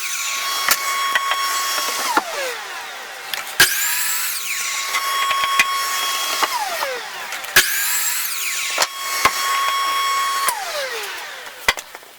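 Electric saw crosscutting a 1x10 board, three cuts in a row. Each time the motor whine rises as the blade spins up, holds steady through the cut, then falls away as the saw winds down, with sharp knocks in between.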